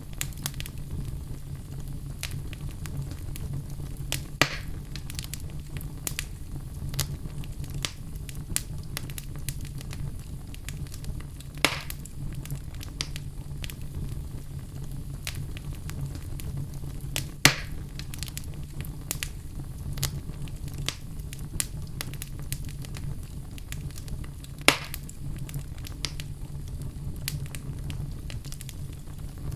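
Wood fire burning in a fireplace: a steady low rumble of the flames with frequent small crackles, and four louder sharp pops spread through, one every six or seven seconds.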